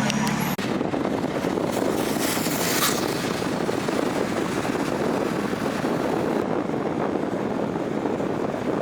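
Steady rumbling vehicle noise with no distinct engine note. It starts after a brief dropout about half a second in.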